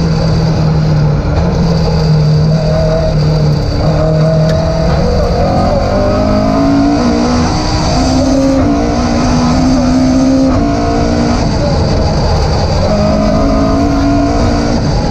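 Opel Kadett rally car's engine under hard acceleration, heard from inside the cabin. Its note climbs, breaks off briefly at each gear change and picks up again, over a steady rumble of road noise.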